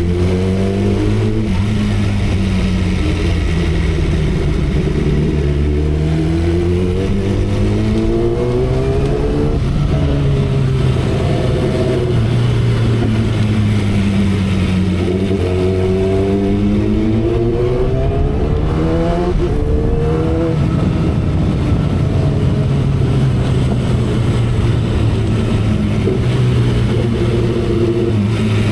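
2012 Kawasaki Ninja ZX-10R's inline-four engine under way at expressway speed, its pitch rising and falling several times as the throttle opens and closes, with a sudden drop in pitch about ten seconds in like a gear change. Wind and road noise run steadily underneath.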